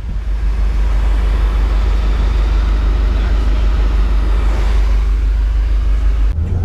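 A car being driven, with a steady, loud low rumble of engine and road noise. The sound changes abruptly near the end.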